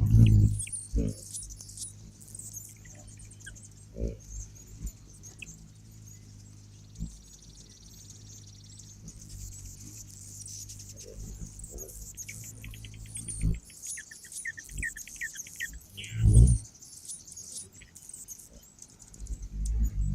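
Small birds chirping and twittering in high short notes, with a quick run of chirps about thirteen seconds in. Under them a low steady hum runs and stops about thirteen and a half seconds in, and a few short thumps sound, the loudest near the start and about sixteen seconds in.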